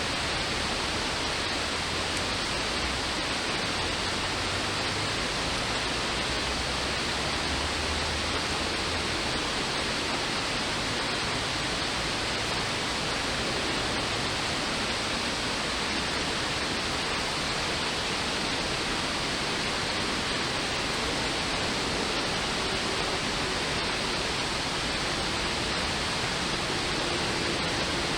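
Steady rushing of creek water, an even hiss that runs on without a break.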